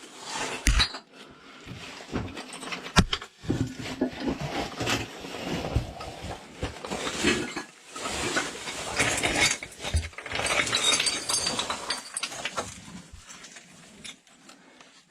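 A caver crawling and squeezing through a tight rock crack: irregular scraping and rubbing of clothing and gear against rock, with sharp knocks and clinks of loose stones and hard equipment.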